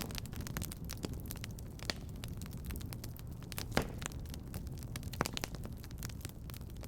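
Wood fire burning in a fireplace, crackling with frequent sharp pops over a low steady rumble. Louder pops come right at the start and about four seconds in.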